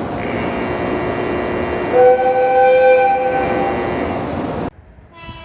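A Japanese train's horn blows a steady two-note chord for about three seconds over the noise of the train running. The sound cuts off suddenly, and a fainter horn tone starts near the end.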